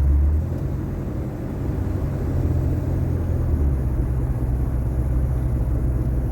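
Inside the cabin of a 1981 Cadillac Seville on the move: a steady deep engine and road rumble. The lowest rumble eases about half a second in and swells again a little past halfway.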